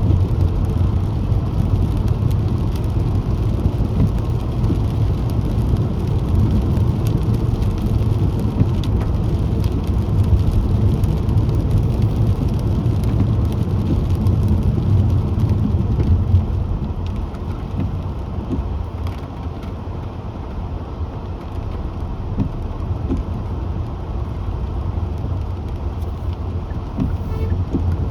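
Car driving on wet roads in rain: a steady low rumble of road and tyre noise with scattered small ticks, easing a little about sixteen seconds in.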